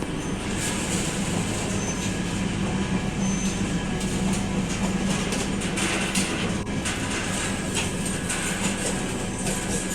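Express passenger train running along the track, a steady rumble with scattered clacks and knocks from the wheels and coach.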